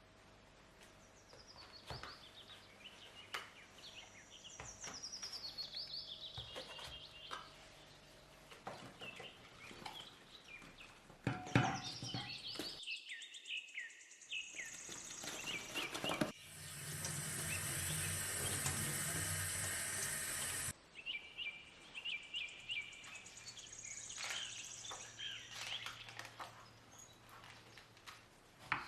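Small birds singing in repeated falling trills of chirps, with scattered light knocks and clicks. Partway through, a tap runs in a steady gush for about four seconds, then stops abruptly.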